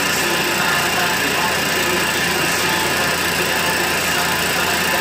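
CNC milling machine running steadily, a constant mechanical whine and hiss with no breaks.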